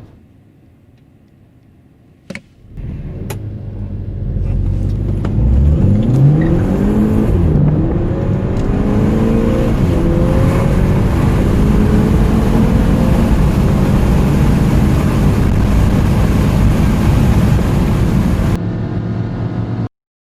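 Turbocharged four-cylinder petrol car engine at full throttle from standstill, accelerating hard to 100 km/h. The engine note climbs, drops at a gear change about seven and a half seconds in, then climbs again before cutting off suddenly near the end. A click comes first, about two seconds in.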